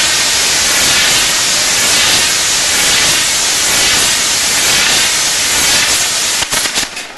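Fireworks fountains spraying showers of sparks, a loud steady hiss. About six and a half seconds in, a few sharp cracks sound and the hiss drops away.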